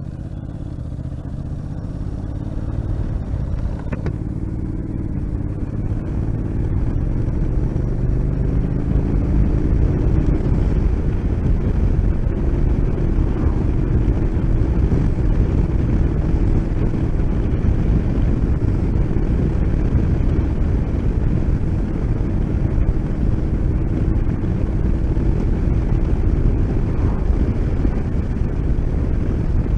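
Motorcycle engine pulling away and accelerating, rising in pitch and getting louder over the first several seconds, then running steadily at speed.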